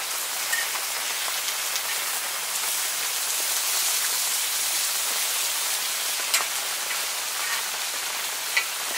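Gopchang (beef intestines) sizzling on a hot cast-iron pan, a steady hiss, with a few light clicks of metal tongs against the pan as the pieces are turned.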